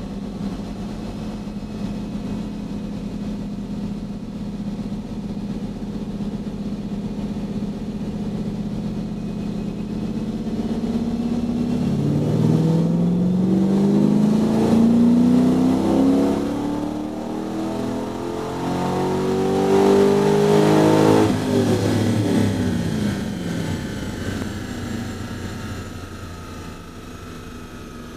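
Cammed 6.0 L LQ4 V8 with 228R cam and milled 243 heads, in a 1987 Trans Am on a chassis dyno, heard from inside the cabin: it holds a steady speed in gear for about twelve seconds, then revs up smoothly under full throttle for about nine seconds as a dyno pull, cuts off suddenly as the throttle is lifted and winds down to a quieter steady run.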